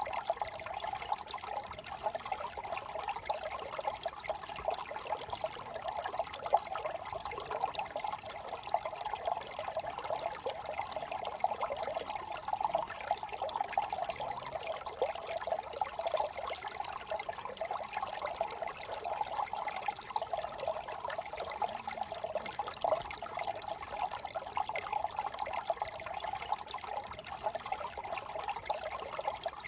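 Shallow brook trickling and babbling over stones, a steady flickering burble of small water movements.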